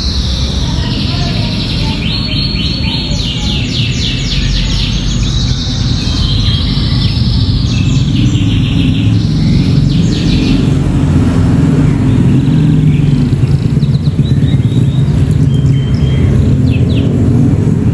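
Domestic canary singing a song laced with ciblek (bar-winged prinia) phrases: fast trills of repeated high notes, busiest in the first half and thinning to scattered chirps later. Under it runs a steady low rumble that grows louder about halfway through.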